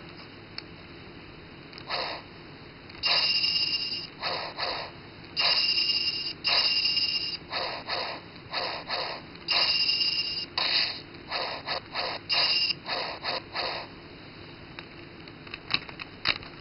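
Engine Blade toy sword playing its electronic sound effects through its small speaker: a quick run of about twenty short bursts, some longer with a held high tone, starting about two seconds in and stopping a couple of seconds before the end.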